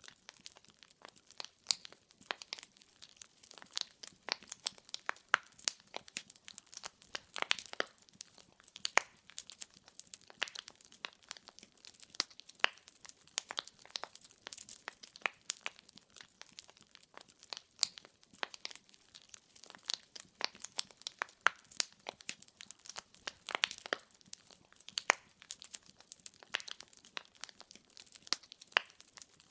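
Wood fire in a fireplace crackling: burning firewood logs giving irregular sharp pops and snaps, several a second, over a faint hiss.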